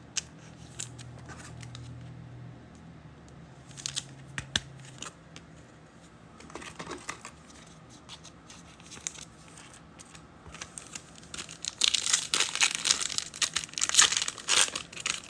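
Foil card-pack wrapper being torn open and crinkled, loudest in the last few seconds, after a few light clicks of cards being handled.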